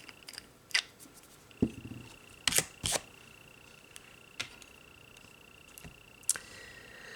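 Scattered sharp clicks and taps of nail-stamping tools handled against a metal stamping plate, about half a dozen, the loudest pair about three seconds in. Under them runs a faint steady high whine.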